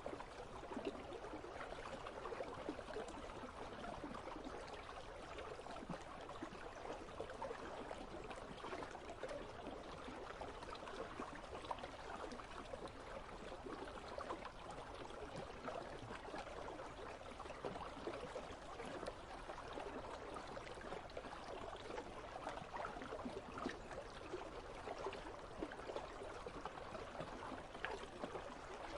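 Icy river flowing steadily, a continuous babble and trickle of water.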